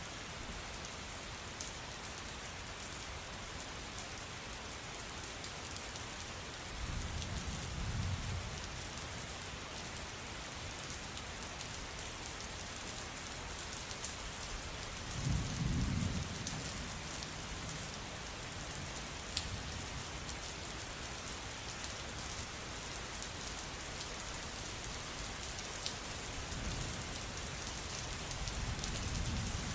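Steady rain, an even hiss with scattered sharp drops ticking. Low rumbles of thunder swell three times: about a quarter of the way in, around the middle and near the end.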